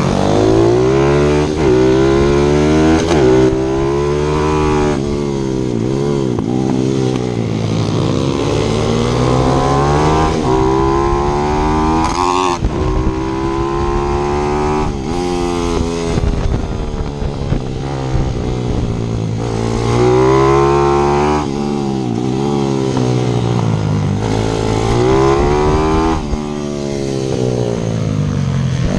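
Onboard sound of a single-cylinder four-stroke pit bike being ridden hard on a circuit. The engine note climbs repeatedly through the gears, dropping sharply at each shift, then falls away as it slows for corners before accelerating again.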